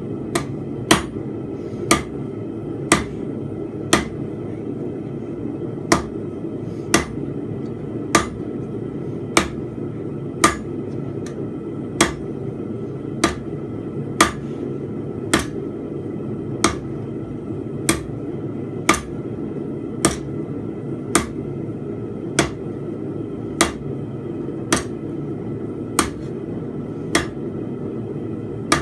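Hand hammer striking hot steel bar stock on an anvil, roughly one blow a second, each a short sharp clank; the anvil's ring is damped by magnets. A forge runs steadily behind the blows.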